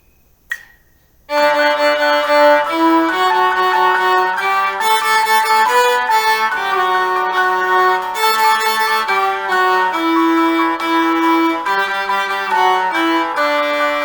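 A single count-in click, then about a second in a viola starts playing a short exercise melody mixing sixteenth, eighth and quarter notes, with a recorded accompaniment track underneath.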